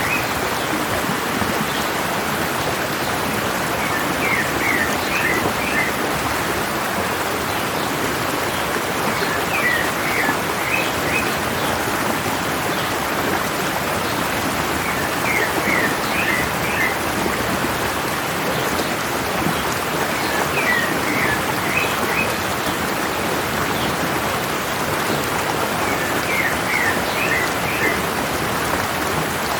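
Stream water running steadily down a mountain, with a bird singing a short phrase of quick chirps about every five to six seconds.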